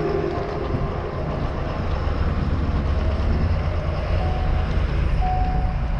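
Small outboard motor, the boat's 15 hp Evinrude, running steadily as the jon boat moves under way, with wind buffeting the microphone in a heavy low rumble.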